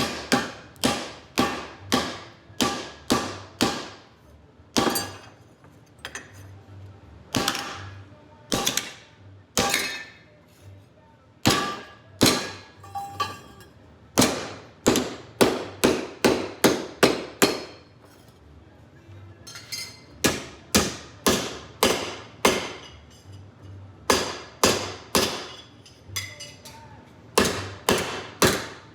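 A hammer striking metal again and again, sharp ringing blows about two a second, in runs broken by short pauses.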